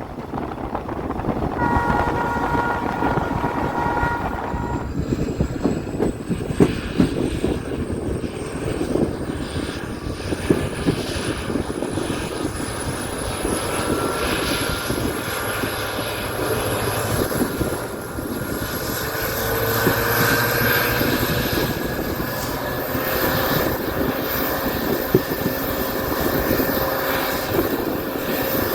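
Diesel-hauled passenger train running, a steady rumble of wheels on rails with scattered clicks. About two seconds in, the locomotive's horn sounds a steady chord for about three seconds. A high whine then rises slowly in pitch through the rest.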